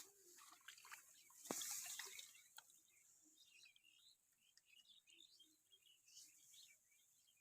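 Faint outdoor bird chirping, short scattered calls through the whole stretch. About one and a half seconds in, a sharp click is followed by a half-second burst of noise.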